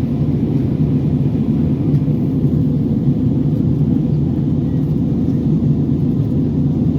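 Steady low drone of an airliner's engines and airflow heard inside the passenger cabin.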